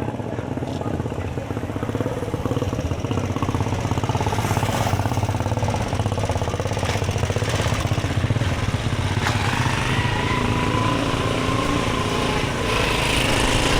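A motor vehicle engine running close by, a steady rapid pulsing rumble over general street noise.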